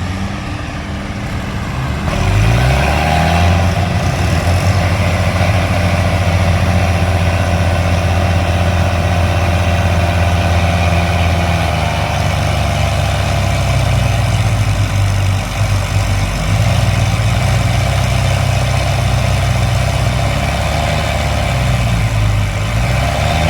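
Tractor diesel engine revving up about two seconds in and held at high revs under heavy load, dipping briefly twice before picking up again.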